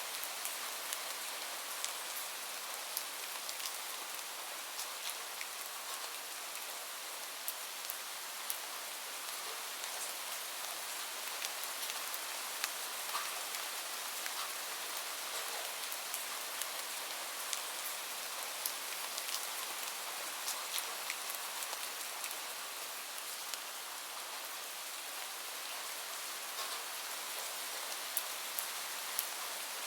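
Steady rain falling, an even hiss with many scattered sharp drips and patters of drops landing on a surface.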